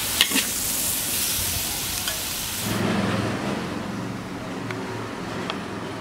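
Stir-fried pork belly and myoga ginger sizzling in a hot wok, finished and ready to dish up, with a few sharp clicks of the metal spatula against the wok near the start. About three seconds in the sizzling stops and a quieter low steady hum remains.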